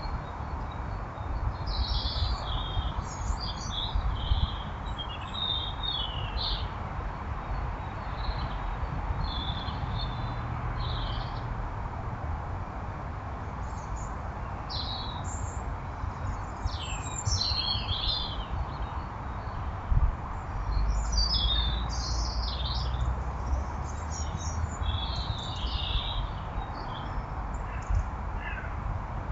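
Small garden birds chirping on and off in short high calls over a steady hiss and low rumble, with a brief thump about twenty seconds in.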